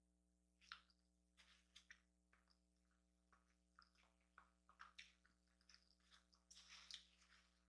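Faint chewing of a chorizo and egg breakfast burrito, with soft wet mouth clicks and smacks scattered through.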